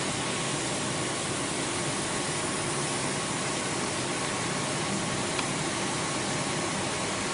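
Steady, even machine hiss with a faint high hum: background running noise of a CNC router.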